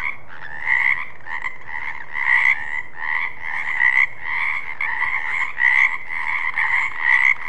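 Frogs croaking: an unbroken calling sound with louder croaks about twice a second.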